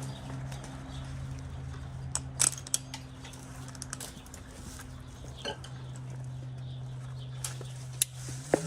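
A motor running steadily at a low, even pitch, with scattered light metallic clinks over it; near the end its pitch steps up.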